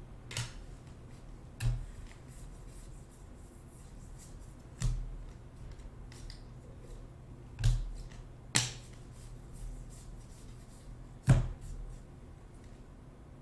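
Baseball trading cards being handled and set down on a table: six or so short, sharp taps and snaps spaced a second or more apart, over a quiet steady background.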